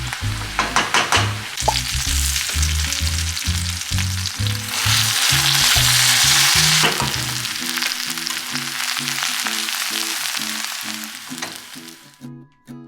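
Brussels sprouts and rainbow carrots sizzling in hot oil in a frying pan, with a few clattering stirs in the first couple of seconds; the sizzle swells louder midway and cuts off abruptly just before the end.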